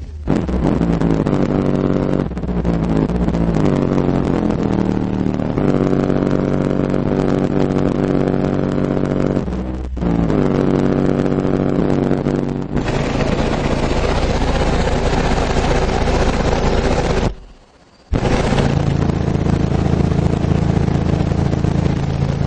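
Two Bravox Endurance 12-inch subwoofers in a ported enclosure playing bass-heavy music at high volume, the bass notes changing step by step. The sound cuts out for about a second roughly three-quarters of the way through.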